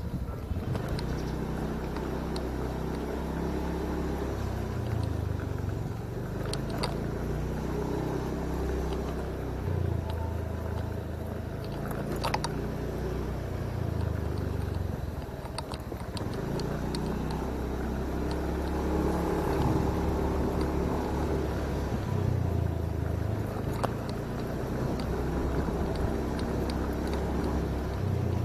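Motorcycle engine running while riding, its pitch holding steady and then shifting every few seconds as the speed changes, with a few brief clicks.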